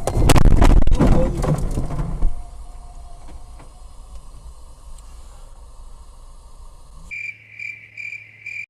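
A car crash recorded by a dashcam: loud impacts and crunching clatter for about two seconds, then a quieter steady hum. About seven seconds in, a series of short, high-pitched electronic beeps, about two a second.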